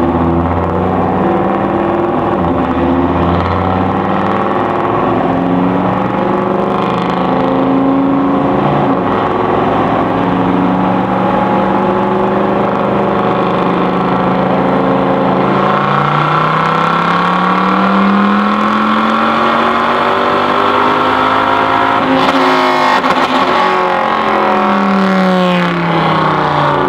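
A car engine running loud and fairly steady, then revving up in a long rising sweep and winding back down near the end.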